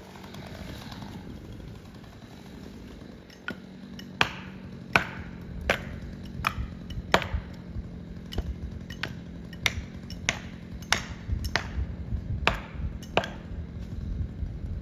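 Over a dozen sharp, ringing blows of a hand striking tool, about one every two-thirds of a second, starting a few seconds in. A faint steady engine hum runs beneath them.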